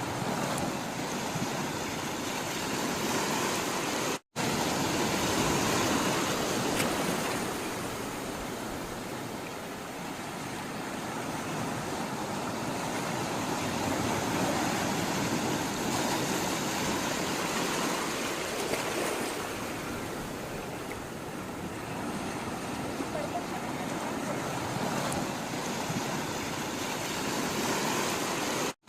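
Sea water rushing and washing, a steady noise that slowly swells and eases over several seconds. It cuts out for an instant about four seconds in and again near the end.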